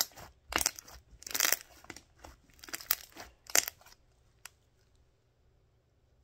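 Creamy glue slime mixed with conditioner and baby powder being squeezed and pressed by hand, giving about six short crackly squishing bursts over the first four seconds.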